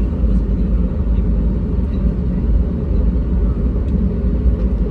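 Steady low rumble of engine and airflow noise inside the cabin of an Airbus A320neo airliner in flight.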